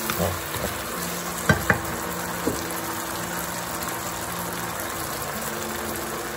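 Beef slices in oyster sauce sizzling in a nonstick wok, stirred with a wooden spatula at first, with two light knocks about a second and a half in.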